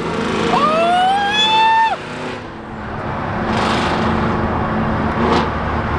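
Straight-piped Aston Martin Vantage accelerating hard, its exhaust note rising in pitch for about a second and a half, then cutting off abruptly about two seconds in. After that comes a steady rush of engine, wind and road noise at speed.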